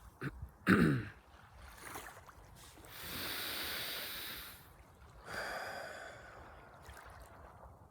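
A person breathing deeply, close to the microphone: a short voiced sigh falling in pitch, then two long, airy breaths.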